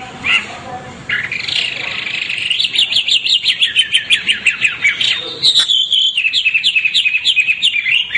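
White-rumped shama singing: a short varied phrase, then a long run of fast, evenly repeated high notes, about six a second.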